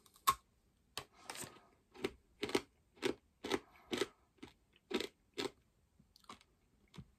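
Pork scratching being bitten and chewed: one sharp crack just after the start, then short, crisp crunches about two a second that thin out near the end.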